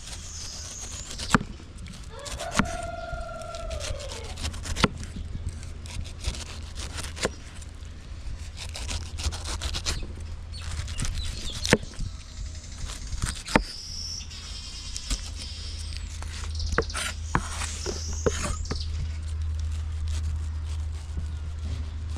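Scattered sharp knocks and high chirping, with one drawn-out animal call about three seconds in, over a steady low hum.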